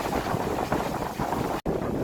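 Strong wind gusting and buffeting a phone's microphone, a dense, uneven low rumble. The sound cuts out for an instant about one and a half seconds in and comes straight back.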